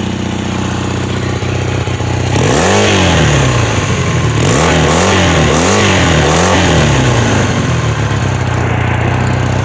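1981 Honda CM400's parallel-twin engine breathing through Harley-Davidson 883 exhaust pipes, idling steadily, then revved once about two seconds in and blipped four more times in quick succession before settling back to idle.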